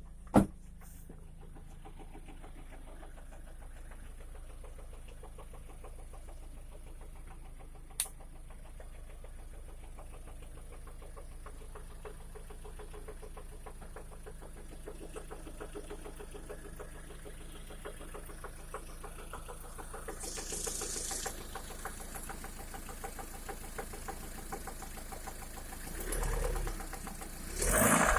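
Lada Priora engine idling with a fast, even knocking. The knock starts once the engine warms past about 60 °C, after the pistons were replaced with valve-relief (non-interference) pistons, and its origin is unclear to the owner. A sharp click comes just after the start and another about eight seconds in, and the sound grows louder near the end.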